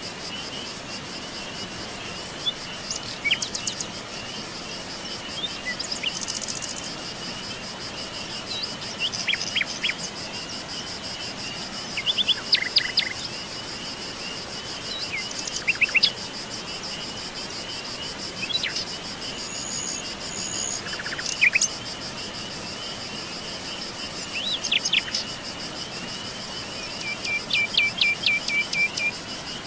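Forest birds calling in scattered short chirps and trills over a steady high-pitched drone of insects.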